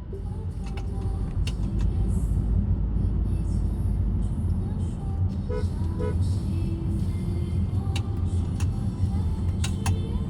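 Steady low rumble of a car in motion, with a few faint clicks and short tones on top.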